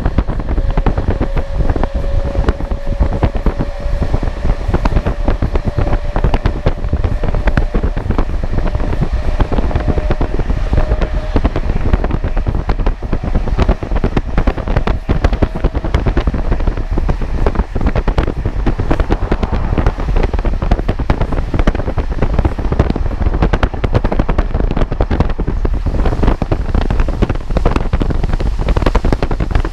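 A moving train with heavy wind buffeting the microphone over a deep rumble. A faint tone slowly rises in pitch through the first half, then fades.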